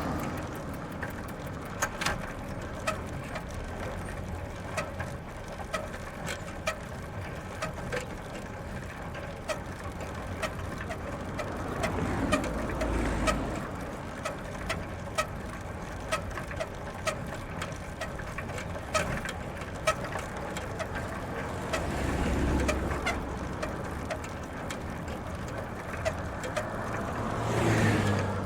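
Bicycle ridden on gravel: steady tyre crunch with scattered sharp clicks and rattles from the bike. Motor vehicles pass three times, swelling and fading as a low rumble about twelve seconds in, about twenty-two seconds in and again near the end.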